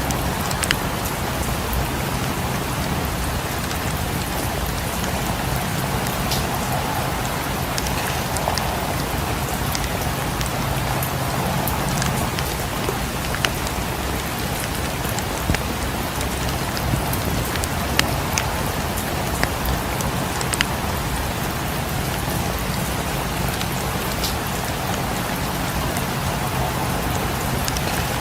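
Steady rain falling, with a constant low rumble under it and scattered sharp pops and clicks from a crackling fireplace fire.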